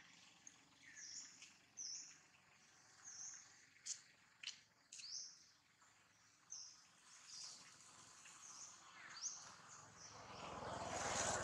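Faint outdoor ambience: small birds repeating short, high chirps about once a second, with a few sharp clicks around the middle. A rush of noise swells near the end and is the loudest sound.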